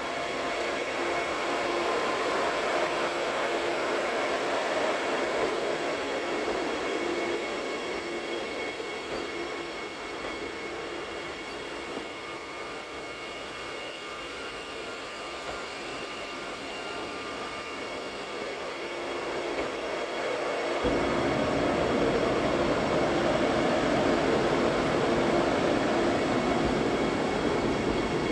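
Vande Bharat electric multiple-unit train running past on the track: a continuous rumble of wheels and undercarriage with a steady hum from its electric traction equipment. It grows louder and deeper about twenty seconds in.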